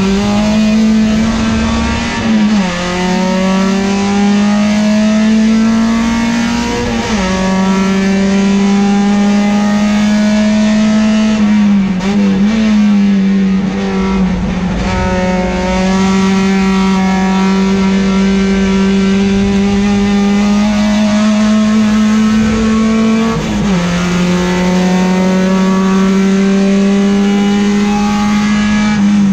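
Peugeot 405 STi race car's four-cylinder engine at full throttle, heard from inside the cabin. The engine note climbs slowly through long pulls and drops sharply at each of several gear changes.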